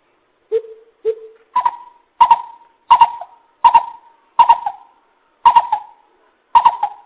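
Coucal (bìm bịp) calling, a lure call: a series of about nine hoots. The first two are lower and softer; the rest are louder and higher, and they come a little further apart as the series goes on.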